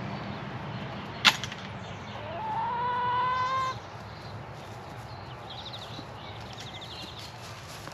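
A rooster crows once, a single call that rises and then holds steady for about a second, shortly after a sharp click. Small birds chirp in quick trills later on, over a steady low background rumble.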